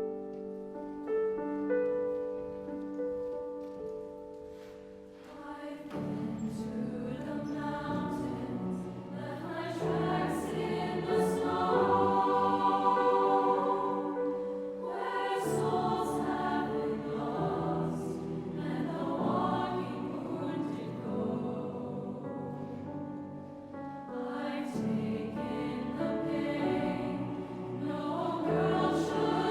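A choir singing. It starts soft with long held notes, then about six seconds in it grows fuller and louder, rising and falling in phrases.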